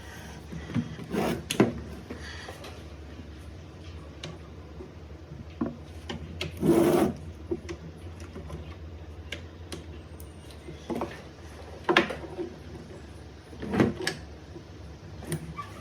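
Scattered clicks and knocks from work on a battery pack, over a steady low hum. A slightly longer scraping noise comes about halfway through.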